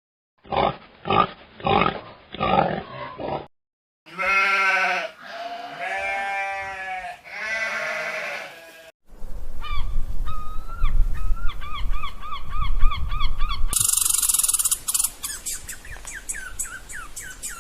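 A run of different animal calls: four short grunts, then three long drawn-out pitched calls, then quick repeated chirping calls over a low rumble, and near the end a burst of noise followed by rapid short calls.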